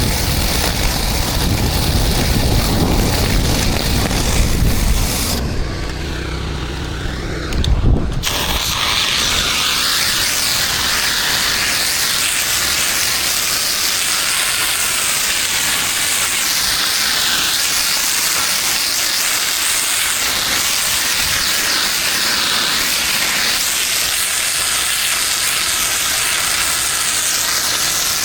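Pressure washer spraying water onto a concrete driveway: a steady hiss that breaks off for about two seconds around six seconds in, with a low thump as it comes back.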